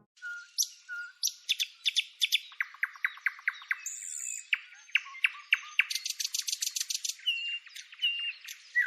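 Birds singing: quick series of repeated sharp chirps and fast trills, with a few short clear whistled notes.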